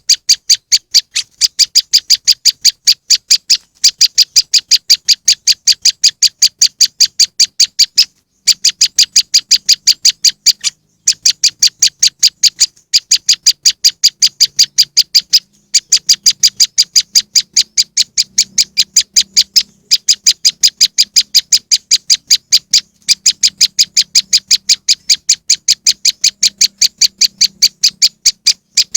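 Recorded prenjak lumut (moss wren) calls used as a bird lure: a rapid, high-pitched chattering of short chips at about five a second, broken by a few brief pauses. A faint low hum lies underneath from about a third of the way in.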